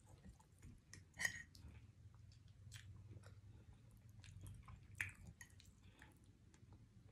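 Faint close-up chewing of neck bone meat and Brussels sprouts, with small wet mouth clicks throughout and two louder sharp smacks, one about a second in and one at about five seconds.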